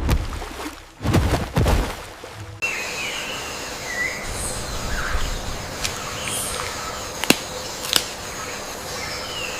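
Rainforest ambience: a steady hiss with short, curling bird chirps and two sharp clicks near the end. It opens with a couple of loud, rushing noises in the first two and a half seconds.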